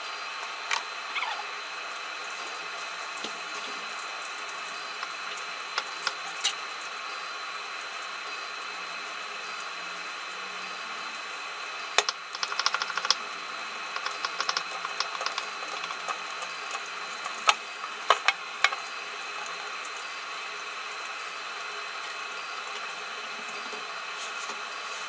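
Tap water running into a kitchen sink, with scattered sharp clinks and knocks of dishes or utensils, a cluster about halfway through and more a few seconds later.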